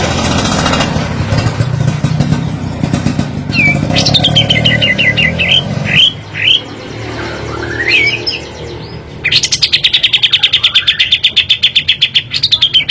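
A kapas tembak songbird singing: whistled phrases of quickly repeated, falling notes, then about nine seconds in a loud, fast rapid-fire run of sharp notes at about ten a second (its 'tembakan', shot-like volley). A low rumble sits under the first half.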